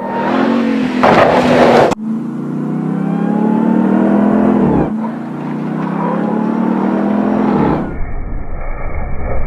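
Supercharged 6.2-litre V8 of a Ram 1500 TRX pickup accelerating hard: the engine note climbs for about three seconds, drops at an upshift, then climbs again. The sound changes abruptly near the start and near the end to a lower, duller engine rumble.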